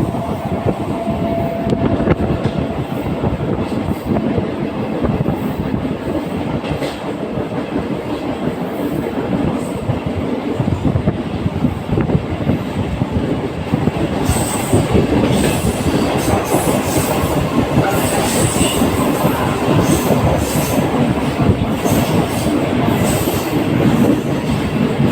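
Mumbai suburban local train running along the track: a steady rumble and clatter of steel wheels on the rails. From a little past halfway, sharper metallic clicks and brief high squeals of the wheels join in and the sound gets somewhat louder.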